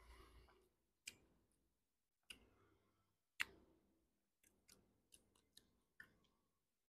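Close-up eating of raw watermelon: crisp, wet crunches of bites and chewing into the juicy flesh. A few separate crunches come a second or so apart, the loudest about three and a half seconds in, then a quicker run of smaller ones.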